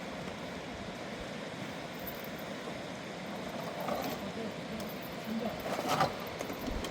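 Steady rushing of a river, with a few light knocks about four and six seconds in.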